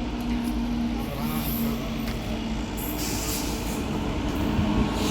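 Passenger train carriage running along the track, heard from on board: a steady low rumble and hum, with a hiss that comes in about three seconds in and grows louder near the end.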